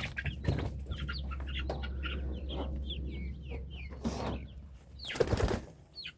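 Young chickens peeping over and over in short, falling chirps, with a few short noisy bursts of wing flapping; the loudest burst comes about five seconds in.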